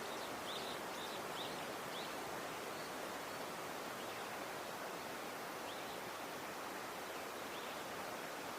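Steady outdoor background hiss with faint, short, high bird chirps, several in the first two seconds and a couple more about six and eight seconds in.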